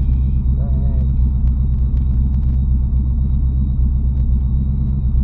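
1986 Ford Mustang engine, fitted with an MSD ignition box and Terminator X fuel injection, idling steadily.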